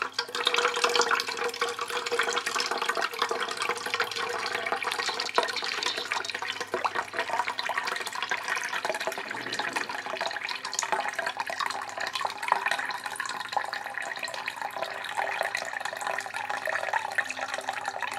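Water being poured steadily from a beaker into a YF-S201 water flow sensor, a continuous splashing pour.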